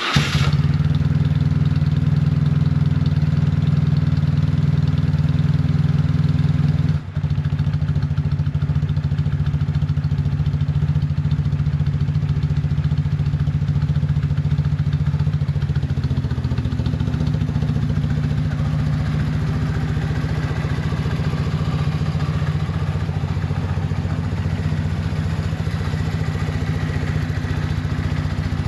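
BMW BoxerCup motorcycle's boxer twin idling steadily just after a cold start, with a brief dip in the running about seven seconds in.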